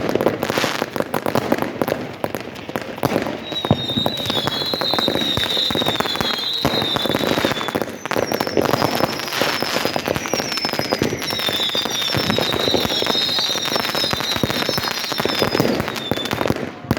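Fireworks going off: a dense, continuous crackle of pops and bangs. High, short whistling tones repeat over it for several seconds at a time.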